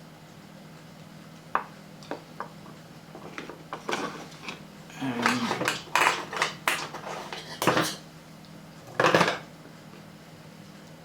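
Crocodile-clip test leads being handled and clipped onto terminals: scattered sharp clicks, then a spell of clattering and clinking of small metal and plastic parts, with two louder clacks near the end.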